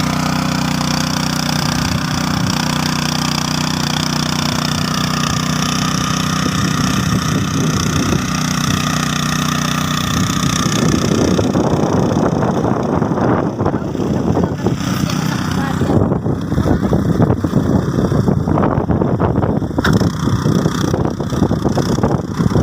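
Tractor engine running steadily with an even hum. About halfway through, the sound turns rougher and noisier, with irregular rumbling and crackle.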